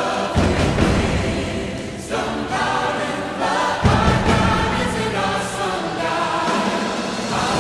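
Choral music: a choir singing a sustained, hymn-like piece, with deep low notes entering about half a second in and again near the four-second mark.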